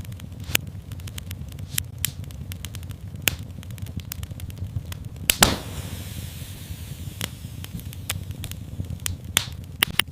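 Fireplace fire crackling: irregular sharp pops and snaps over a steady low rumble of the flames, with the loudest pop about five seconds in.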